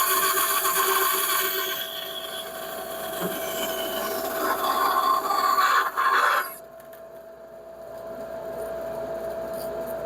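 KAKA Industrial WBS-14 14-inch bandsaw crosscutting a board of red oak, its aggressive blade cutting through like nothing. The cutting noise stops sharply about six and a half seconds in, leaving the saw and dust collection running with a steady hum.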